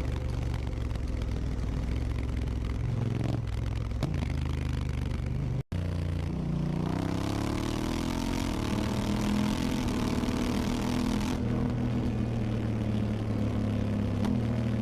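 Honda Africa Twin CRF1000's parallel-twin engine through an Akrapovic exhaust, running steadily on the road. After a momentary break in the sound about six seconds in, it accelerates, its pitch rising for a few seconds with a rush of wind noise, then holds steady again.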